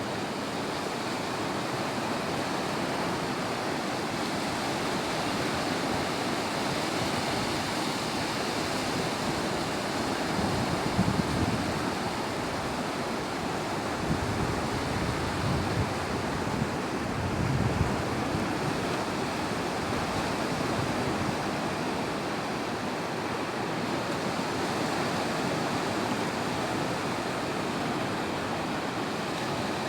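Ocean surf on a beach: waves breaking and washing up the shore in a steady rush, with a few heavier rumbling swells in the middle. Some wind buffets the microphone.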